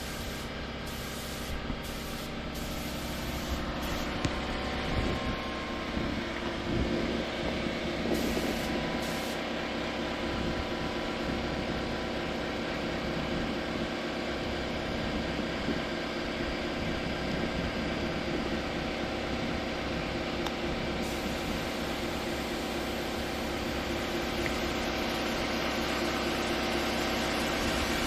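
Spray gun hissing as it lays paint, over a steady machine hum that runs throughout.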